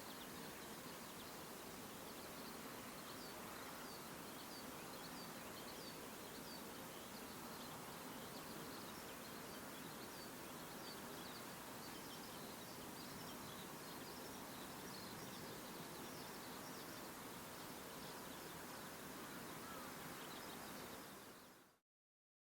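Faint outdoor ambience: a steady hiss with many small, distant bird chirps, fading out near the end.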